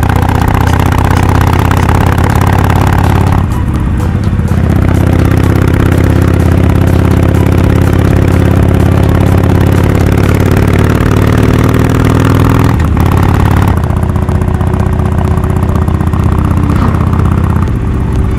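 Harley-Davidson Forty-Eight's air-cooled 1200 cc V-twin running through a Rinehart slip-on exhaust while riding. The engine note climbs steadily for several seconds in the middle, with brief breaks about three and a half and thirteen seconds in where it drops and picks up again.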